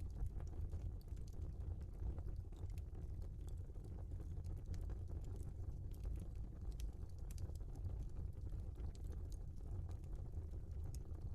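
Wood fire burning in a fireplace, a steady low rumble of flames with frequent small, sharp crackles and pops from the burning logs.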